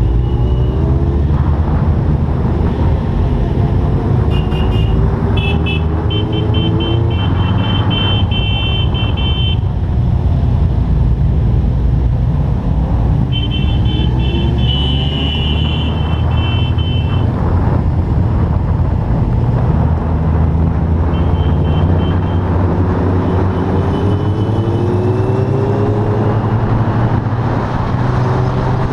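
Motorcycle engine heard from the rider's own bike, rising in pitch again and again as it accelerates up through the gears, over a steady low rumble of wind and road. A high steady whistling tone comes and goes several times.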